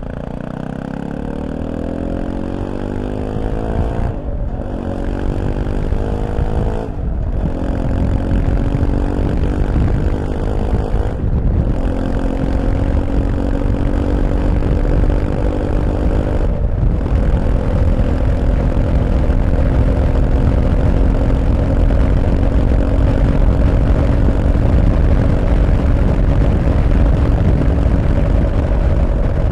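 Fantic Caballero 500 motorcycle's single-cylinder four-stroke engine accelerating through the gears. Its pitch rises in each gear, with four short breaks at the upshifts, then it settles into a steady cruise. Wind noise builds under it as the speed climbs.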